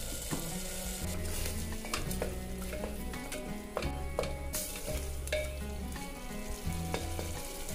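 Onion and spice paste sizzling in a pressure cooker while a wooden spatula stirs it, with repeated short scrapes and taps of the spatula against the pot.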